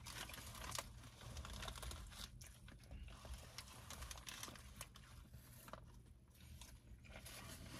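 Faint chewing of a burger close to the microphone, with scattered small crinkles and mouth clicks over a low steady rumble.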